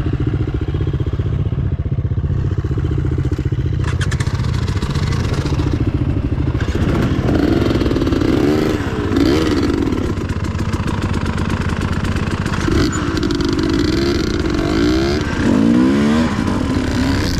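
Dirt bike engine running steadily, then rising and falling in pitch again and again as the throttle is worked on the trail, with some clatter from the bike.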